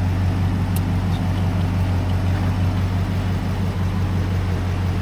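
A vehicle engine idling steadily at an even, unchanging speed, with a single light click about a second in.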